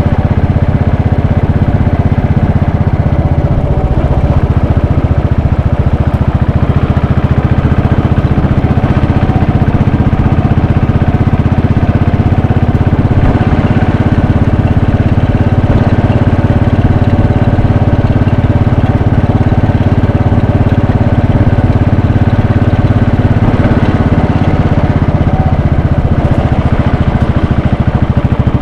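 Royal Enfield Bullet 500's single-cylinder engine and exhaust running steadily under way, with a rapid, even beat of firing pulses and small dips and rises in loudness as the throttle changes.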